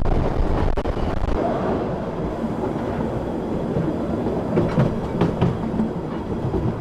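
Narrow-gauge Šargan 8 heritage railway carriage running along the track, heard from its open end platform: a steady rumble of wheels on rails with a few clicks and knocks over the rail joints. The deep rumble eases about a second and a half in as the carriage comes out of a tunnel.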